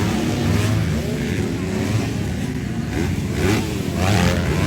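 Motocross motorcycle engines revving, their pitch rising and falling several times about three to four seconds in.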